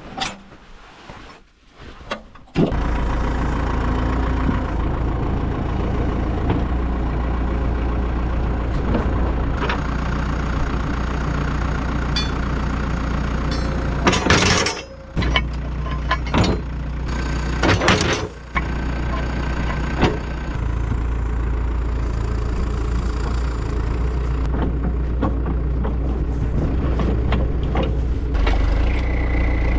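A loader machine's diesel engine comes in suddenly about two and a half seconds in and runs steadily, with a few sharp metal clanks around the middle as the attachment is handled.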